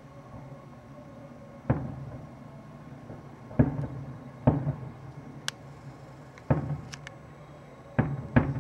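Aerial fireworks shells bursting at a distance: six booms at uneven intervals, the last two close together, each trailing off in a short rumbling echo. A few faint, sharp high clicks fall between them.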